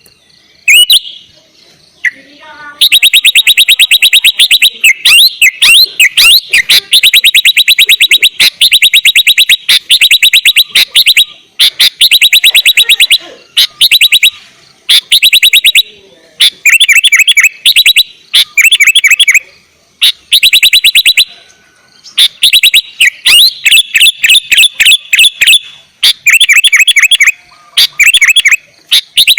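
Sooty-headed bulbul (kutilang) singing loudly in long runs of rapid, chattering trilled notes. The runs break off briefly every second or two and start again.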